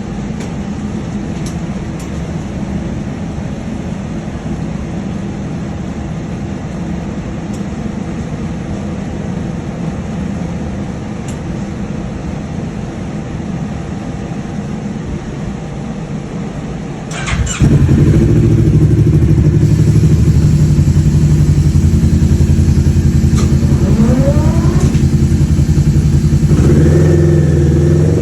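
Kawasaki Ninja 650 parallel-twin engine through a full Akrapovic titanium exhaust, running steadily at a low, even speed, then revved hard about 17 seconds in and held loud at high revs, with warm-up throttle pulls.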